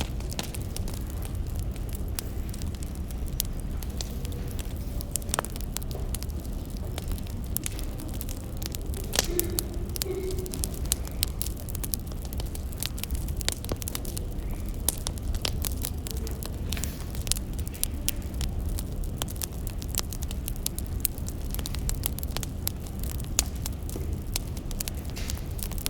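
Wood fire crackling, with irregular pops and snaps over a low steady rumble.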